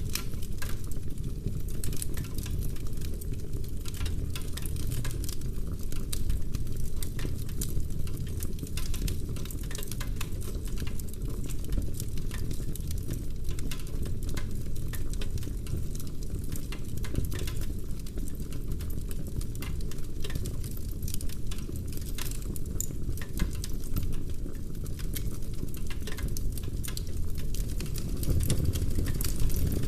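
Wood fire burning in a fireplace: logs crackling densely with many small pops over a steady low rumble.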